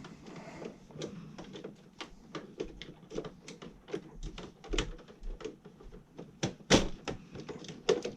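Irregular clicks and knocks of hands and tools working on circuit breakers in an electrical panel, several a second, with one louder knock about two-thirds of the way through.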